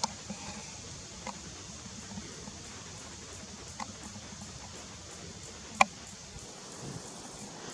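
Sharp, scattered clicks from an unseen animal, about five of them spread over several seconds with the loudest late on, over a faint steady high hiss.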